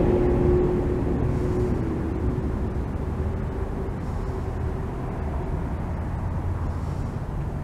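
A motor's steady hum that sinks slightly in pitch and fades away over the first few seconds, over a low rumble.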